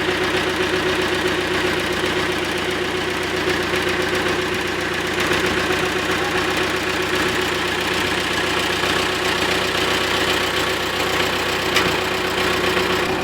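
Diesel engine of a Volvo excavator running steadily, with an even drone and a constant tone over it.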